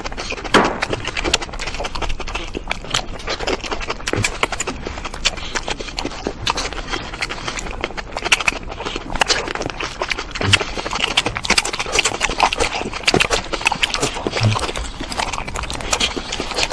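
Close-miked eating sounds of someone chewing fast: dense wet smacking and clicking of the mouth as cherry tomatoes and other soft pieces are bitten and chewed in quick succession.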